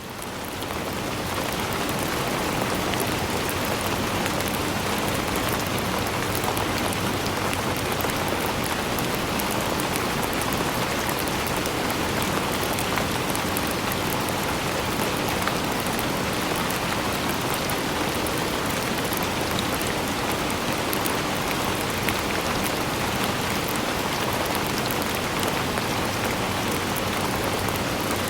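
Steady rain falling, an even hiss with fine patter of drops. It swells up over the first second or so, then holds level.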